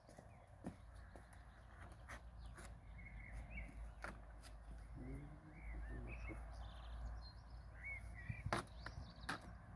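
Small birds chirping in short curved calls several times, over scattered clicks and knocks of handling, the sharpest about eight and a half seconds in.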